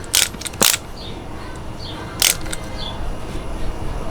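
Three sharp clicks from tools being handled, one right at the start, one about half a second later and one a little over two seconds in, over low background noise.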